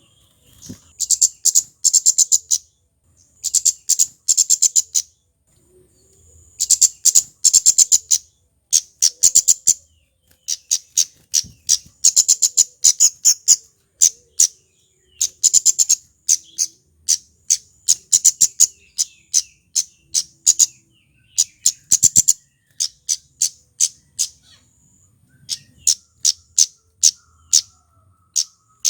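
Male kemade (a Javanese flowerpecker) singing loudly: rapid runs of sharp, high ticking chirps, each run a quick string of notes, repeated with short pauses.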